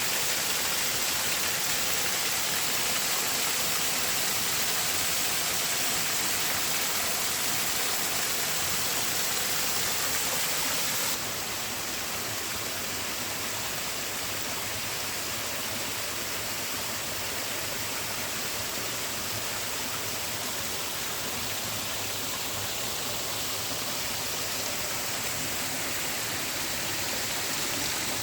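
Creek water tumbling over rocks in small waterfalls, a steady rushing hiss. About eleven seconds in it changes abruptly to a somewhat quieter, duller flow.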